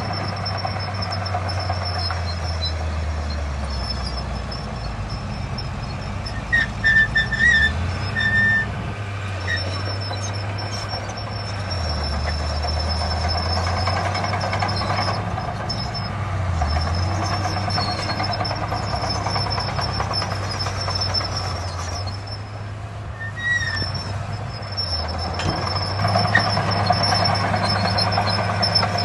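Heavy diesel earthmoving machinery running: a deep engine drone that falls and rises in pitch several times as the machines work. A few short high squeals come about seven seconds in and once more later on.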